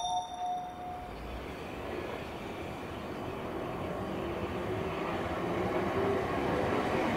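Electric or diesel multiple-unit passenger train on the South Western Main Line, growing steadily louder as it approaches through the station. The last notes of a music track die away in the first second.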